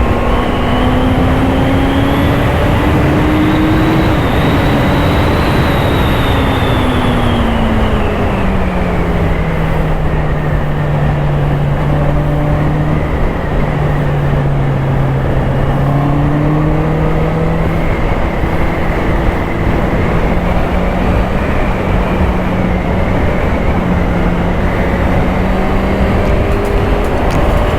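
Honda CBR650R's inline-four engine under way with heavy wind rush. The engine note climbs slightly at first, falls away over several seconds to a low steady note, then gradually rises again toward the end.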